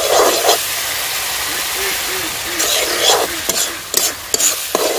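Onion and spice masala frying in hot mustard oil with a little water in a kadhai, hissing loudly and steadily while it is stirred in repeated strokes.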